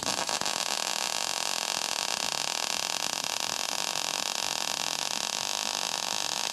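MIG welder arc running in one continuous test bead, a steady hissing crackle that cuts off suddenly at the end.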